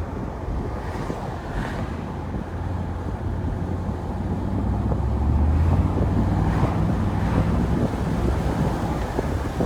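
Exhaust of a Mercedes R129 500SL's 5.0-litre V8 with the muffler deleted, running low and steady while driving with the top down, growing louder about four seconds in. Wind buffets the microphone throughout.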